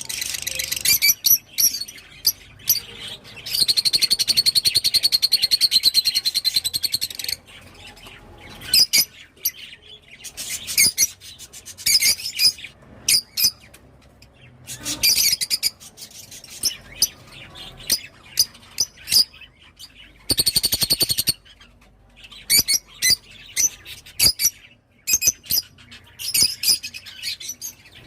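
Rosy-faced (peach-faced) lovebirds chirping in rapid, high-pitched bursts, with a longer unbroken run of chatter a few seconds in and shorter runs after.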